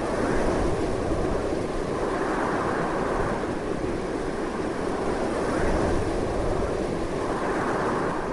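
Strong, continuous wind: a dense rushing noise with a low rumble underneath, swelling and easing gently.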